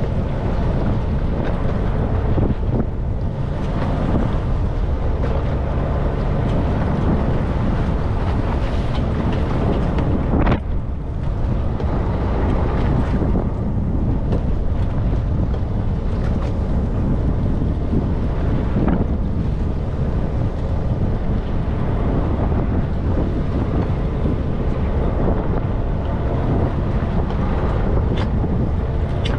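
Charter fishing boat under way at sea: a steady rush of engine and water noise, with wind buffeting the microphone. The noise dips briefly about ten seconds in.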